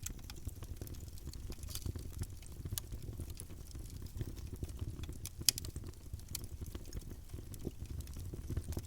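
Campfire burning with a low steady rumble and scattered crackles and pops of burning wood, the sharpest pop about five and a half seconds in.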